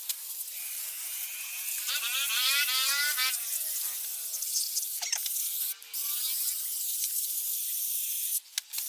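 Steady hissing spray with a faint steady whistle under it, its tone shifting as the spray moves. It breaks off briefly about six seconds in and again near the end.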